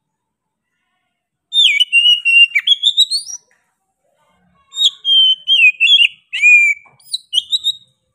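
Oriental magpie-robin singing: two loud phrases of clear whistled notes that slide up and down, the second beginning about halfway through.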